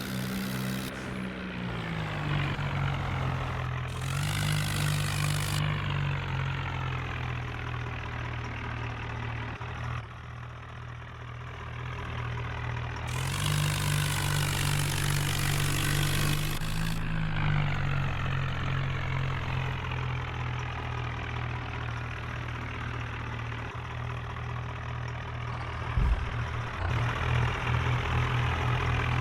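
Swaraj 963 FE tractor's diesel engine running, its speed rising and dropping back several times, with a single knock near the end.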